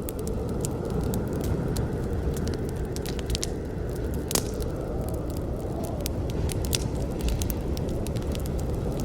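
Campfire burning: wood crackling with scattered sharp pops over a steady low rumble of the flames, with one louder pop a little before halfway.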